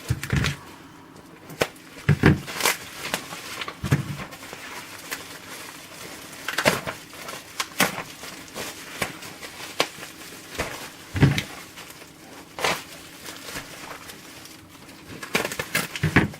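Packaging being handled and opened: irregular rustling, with sharp clicks and light knocks of cardboard and wrapping.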